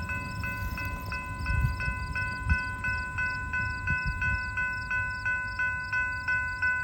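Canadian Pacific manifest freight train rolling slowly past, a low rumble with occasional wheel knocks over the rails. Over it a road-crossing signal bell rings steadily at about three strokes a second.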